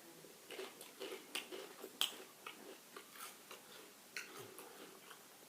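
Pringles crisps being crunched and chewed close to the microphone: irregular, sharp crackles, the sharpest about two seconds in.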